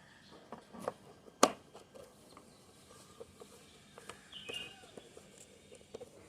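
Parrot pecking and nibbling at a biscuit: scattered light taps and clicks, with one sharp click about one and a half seconds in and a brief high squeak about four and a half seconds in.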